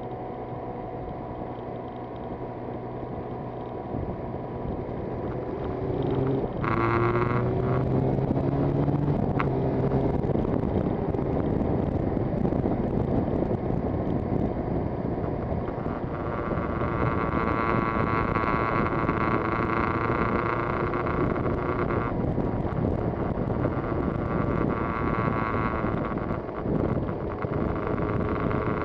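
Yamaha TZR250's two-stroke engine under way, its revs climbing about six seconds in, then running hard at high revs with wind rushing over the microphone. The engine note drops briefly near the end.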